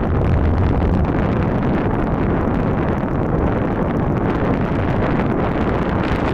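Sea wind blowing hard across the microphone: a steady, low rumbling rush of noise with no breaks.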